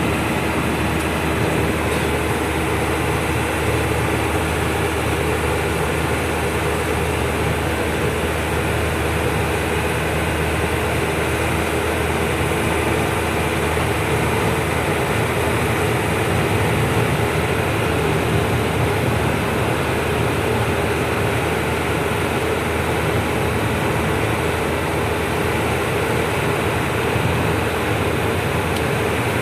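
A truck's engine drone and road noise, heard from inside the cab while driving, steady and unchanging.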